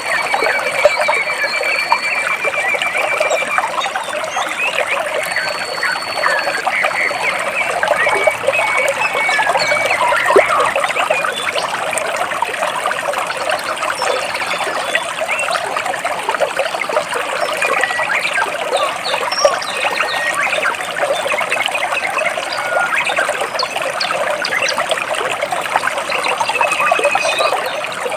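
Stream water trickling and splashing between rocks in a steady, busy rush, with a few thin, high bird calls over it, mostly near the start and once near the end.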